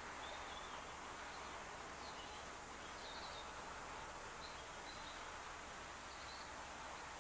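Steady outdoor background noise with a small bird giving short, high chirps every second or so.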